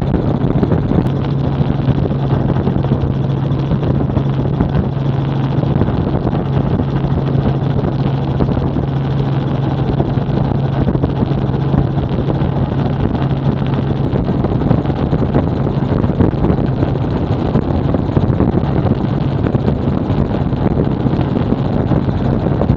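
Helicopter in steady flight heard from on board: the rotor and engine make a constant loud noise, mixed with wind buffeting the microphone. A steady low hum runs through it and fades out about seventeen seconds in.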